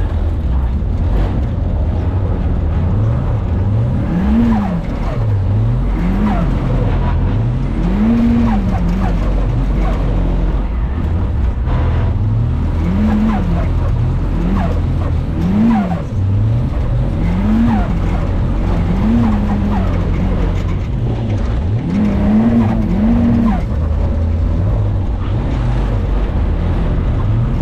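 Mazda Miata's four-cylinder engine revving up and falling back about ten times in quick succession as the car is drifted on a wet surface, over a steady low rumble.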